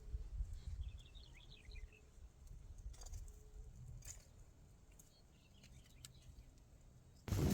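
Faint chirping of small birds in two short clusters, over a low rumble of wind. Just before the end, loud wind noise suddenly hits the microphone.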